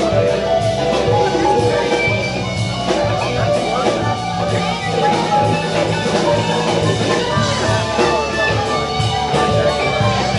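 Rock band playing, with guitar over bass and a steady drum beat.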